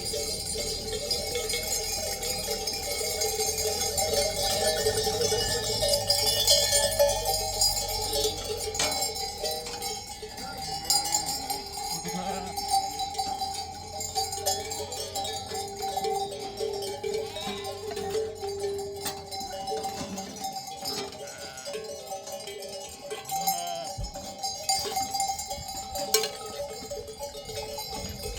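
Livestock bells clinking and ringing continuously, many bells at once, as a herd of sheep or goats moves about.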